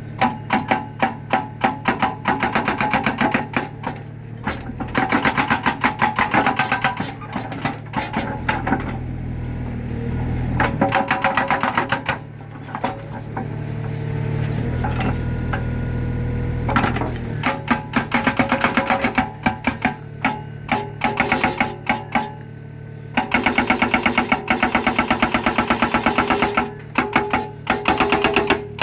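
Mini excavator's hydraulic breaker hammering concrete in rapid blows, in bursts of a few seconds, over the steady hum of the excavator's engine. In the pauses between bursts only the engine is heard.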